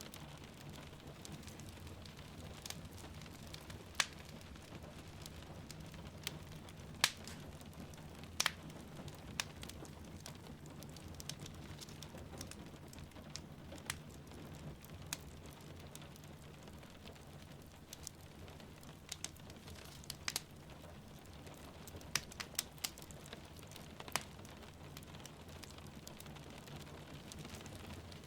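Wood fire crackling with irregular sharp pops and snaps over a steady bed of rain, the sound of a fireplace burning while rain falls outside.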